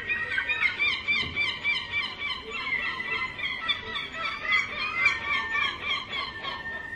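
King penguin colony calling: many short, overlapping chirping calls over a thin steady whistle.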